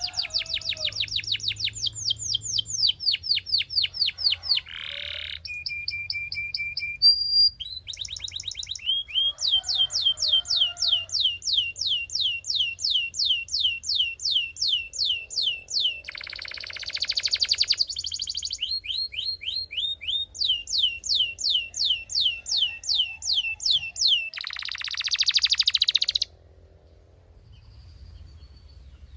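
Belgian canary singing: fast high trills of rapidly repeated sweeping notes, broken twice by harsher buzzing rolls. The song stops about three seconds before the end.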